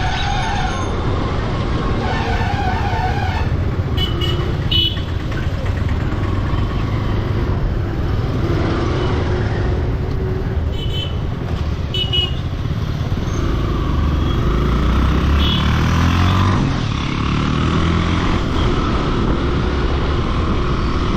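Motorcycle engine running on the road under a steady rumble of wind and road noise, with traffic around and a few short horn toots. About two-thirds of the way through, the engine note rises as the bike speeds up.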